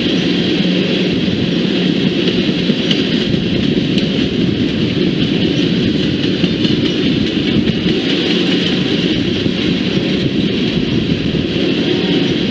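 A train passing with the steady, loud rolling noise of its wheels on the rails.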